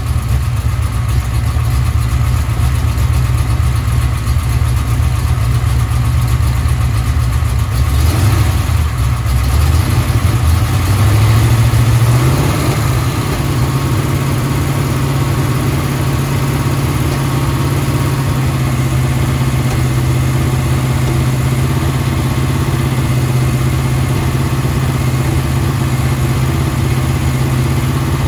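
Chevrolet LT1 383 small-block V8 running on an engine test stand, steady at idle, then rising in pitch about ten seconds in and holding a faster, steady speed for the rest.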